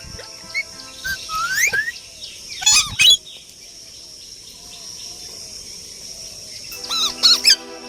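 Parrots chirping and whistling in short gliding calls, with a burst of loud, shrill calls about three seconds in, a quieter stretch of soft calls, then loud calls again near the end.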